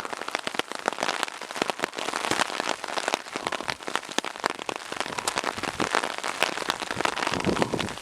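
Rain falling, with many drops landing close by as sharp, irregular ticks over a steady patter.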